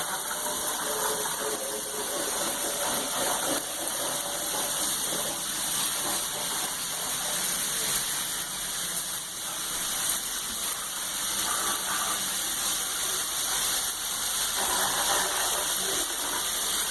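Tub shower running: a steady spray of water pouring down into the bathtub.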